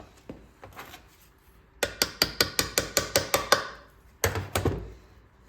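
A quick run of about ten sharp metallic taps, about five or six a second, then two heavier knocks: a metal tool working on small-engine parts during teardown.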